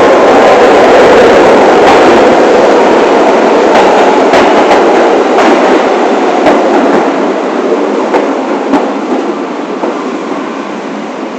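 New York City subway train running along the track: a loud, steady rumble of wheels and car, with sharp clicks of the wheels over rail joints in the middle. The noise grows quieter in the second half.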